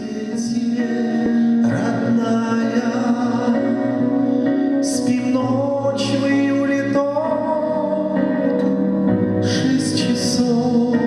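Live band music: an instrumental passage of sustained chords and melody that sets in after a brief lull.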